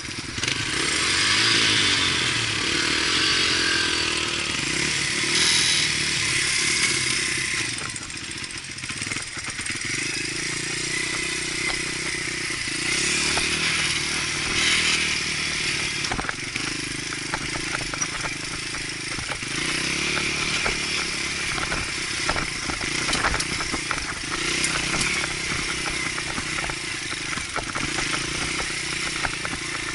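Dirt bike engine running at low speed on a trail, its revs rising and falling, with frequent knocks and clatter from the bike working over rough, rocky ground.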